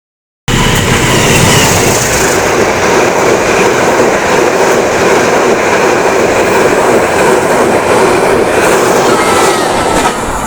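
Train running on the rails, a loud steady noise of wheels and cars that starts abruptly about half a second in, with faint brief squeals near the end.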